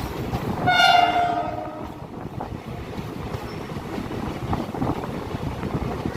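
Railway locomotive horn sounding one short blast about a second in, over the steady rumble and clatter of the rolling train.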